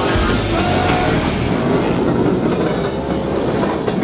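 A train running by with a steady rumble and the clatter of its wheels on the rails.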